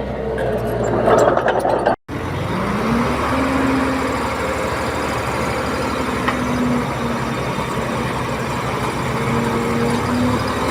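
Heavy diesel engine of earth-moving machinery running. After an abrupt cut about two seconds in, it revs up over about a second and then holds a steady pitch with small rises and falls.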